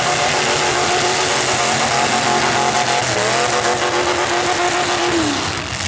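Stock full-size demolition derby cars' engines running hard and revving. One engine's pitch dips about three seconds in, and another falls off near the end.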